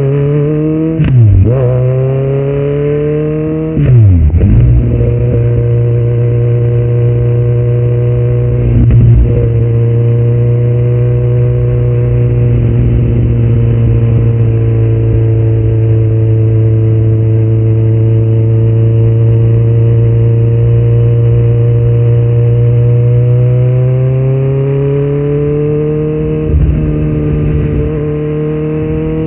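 2018 Kawasaki Z900's inline-four, through aftermarket headers and a Yoshimura muffler with no dB killer, heard from the rider's seat. Twice in the first few seconds the revs drop sharply and come back, each time with a loud burst. It then holds a long, steady drone at constant revs, climbs gradually in pitch near the end and briefly dips again.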